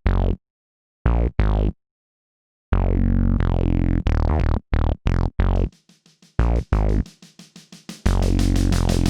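Roland JUNO-DS synthesizer playing short staccato chord stabs, each with a falling filter sweep, broken by abrupt dead-silent stops. A quieter run of quick short notes follows, then the full arrangement comes back in near the end.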